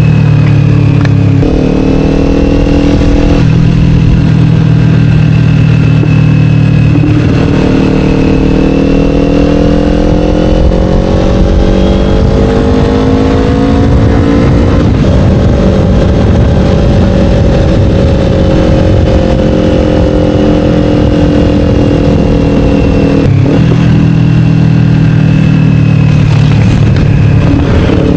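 Kawasaki Ninja 500's parallel-twin engine through an Akrapovic slip-on exhaust while riding, its pitch shifting with engine speed: climbing steadily for several seconds in the middle, then dropping near the end. Wind and road noise run underneath.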